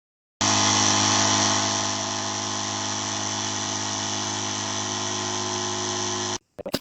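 Oil-free electric air compressor running steadily with a hum, easing slightly about two seconds in and cutting off suddenly near the end, followed by a few brief sounds.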